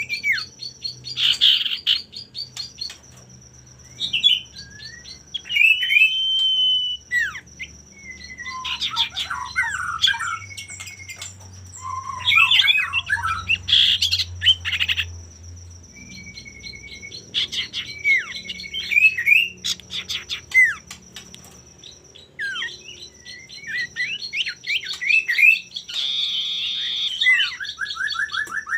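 Male common iora singing energetically: clear whistled notes, some gliding down in pitch, alternating with rapid scratchy chattering runs. A steady thin high whine sounds behind the song, breaking off briefly a few times.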